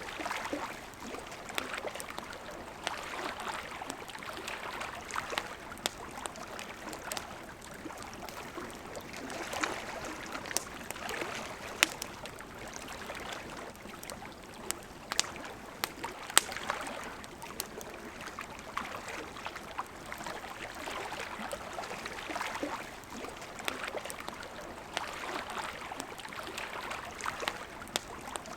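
Campfire crackling with scattered sharp pops over the steady rush of a flowing river. The loudest pops come about twelve and sixteen seconds in.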